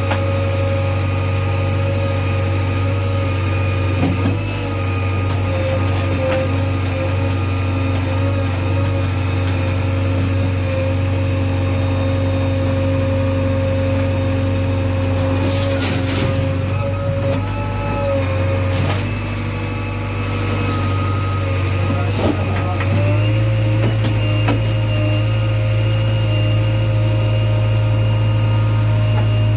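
Heavy diesel engine running steadily, with a few knocks and clatters in the middle. The engine's low note shifts about three-quarters of the way through.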